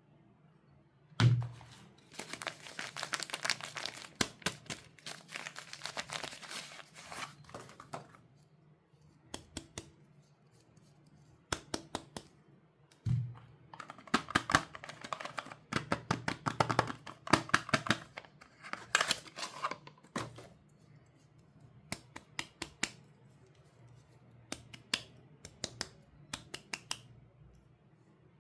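Soap bar packaging being torn open and crinkled by hand: bursts of dense crackling, with a soft thump about a second in and again near the middle, where something is set down.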